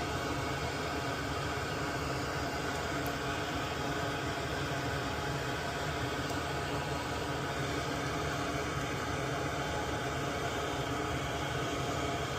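Steady machine hiss with a low hum underneath, like a small fan or blower running continuously, unchanging throughout.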